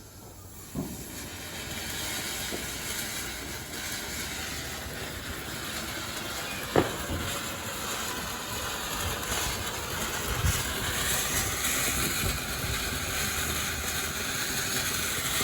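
Ground firework fountain hissing steadily as it burns, with a couple of sharp pops partway through.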